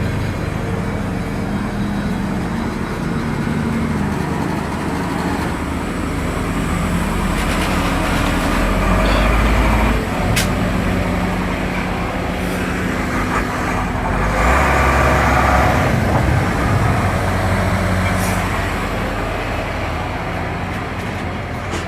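Heavy vehicle's engine running steadily, with two louder low rumbles, one about nine seconds in and one about fifteen seconds in, and a single sharp click about ten seconds in.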